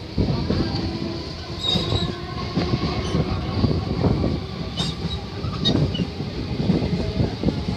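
Electric suburban local train running at speed, heard from inside a carriage at an open window: a steady rumble of wheels on rail with irregular knocks and clatter and a few sharp clicks.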